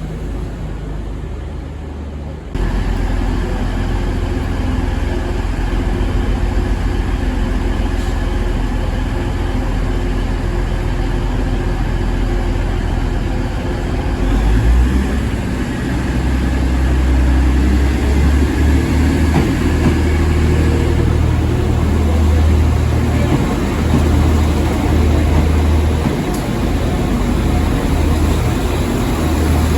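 A train running, with a steady low engine rumble. The sound changes abruptly about two and a half seconds in and grows louder about halfway through.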